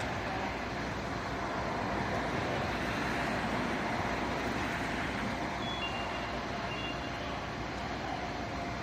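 A large vehicle's engine running steadily, with a few short faint high beeps in the second half.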